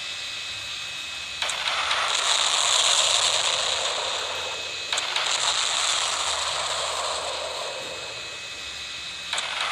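Fighter jet engines running, a rushing roar that surges suddenly three times and eases down in between.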